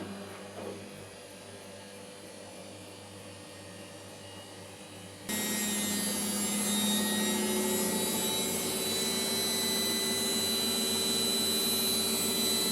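Low steady hum, then a loud, steady machine running noise with several steady tones that starts abruptly about five seconds in.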